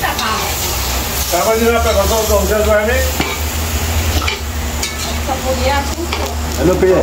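Food frying and sizzling in a pot while being stirred, over a steady low rumble.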